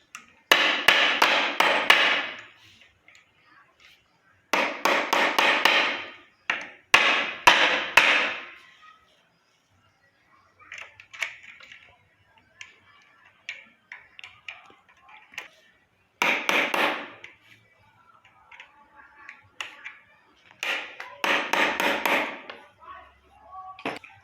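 Hammer blows driving a bearing into a wheelchair wheel hub, in several bursts of rapid strikes with lighter taps between them, as the bearing is knocked down into its seat.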